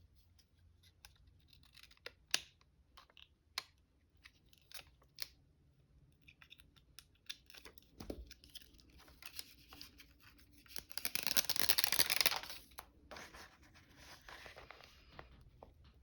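Paper handled with light taps and rustles, then a longer sound of paper tearing about eleven seconds in, followed by a softer second stretch of tearing.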